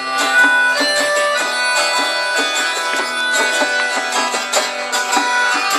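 Acoustic folk group playing an instrumental passage, led by plucked strings with note after note picked out over held tones.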